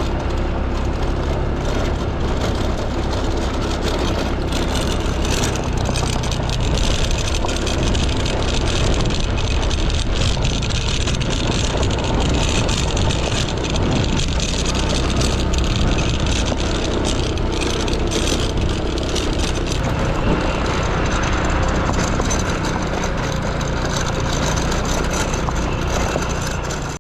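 A motor vehicle's engine running steadily under way, with dense road and wind noise heard from on board.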